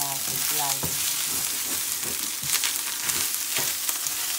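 Fried rice sizzling steadily in a hot pan while a spatula stirs and scrapes it, with irregular scraping strokes over the hiss.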